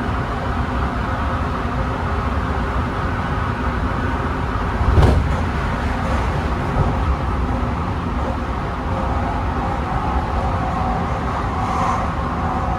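Tsukuba Express electric train running, heard from inside the car as a steady rumble, with one sharp knock about five seconds in.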